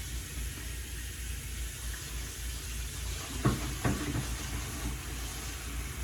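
Kitchen tap running water into the sink, a steady hiss, with two brief louder sounds a little past halfway.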